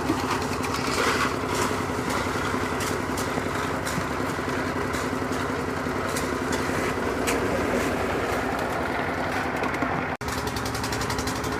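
An engine running steadily, with scattered clinks and knocks over it, typical of a concrete mixer at work on a building site. The sound cuts out for an instant about ten seconds in.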